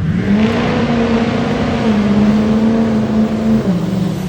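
Truck engine at full throttle on a sprint run: the pitch climbs quickly, holds high and steady, then drops once near the end, like an upshift.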